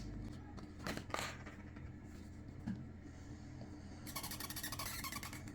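A pen writing on a board: a few light clicks about a second in, then scratchy pen strokes from about four seconds in.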